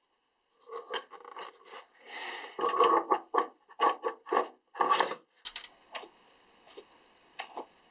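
Thin copper wire being pulled and bent around metal rivet pins set in a wooden block, scraping and rubbing on the wood and metal in a quick series of short strokes. The strokes are loudest near the middle and die down to a few faint ticks near the end.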